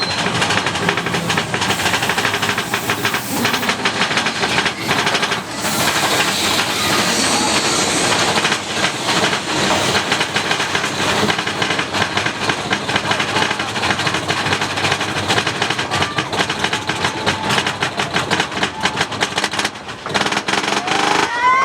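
Mine-train roller coaster cars rattling and clattering along the track at speed, a dense, steady run of rapid clacks.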